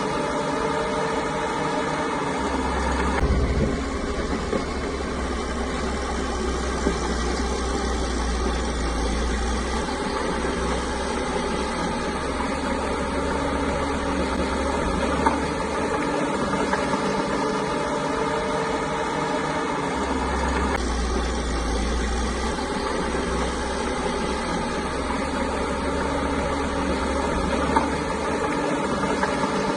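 Bulldozer's diesel engine running steadily while it works, with a deep low rumble that swells up twice for several seconds at a time.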